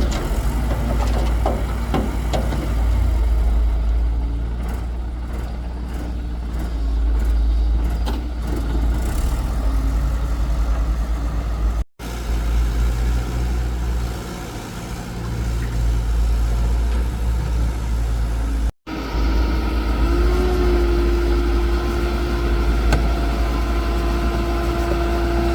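Excavator engine running with a deep, steady rumble. It cuts out briefly twice, and over the last few seconds a steady whine sits on top of the rumble.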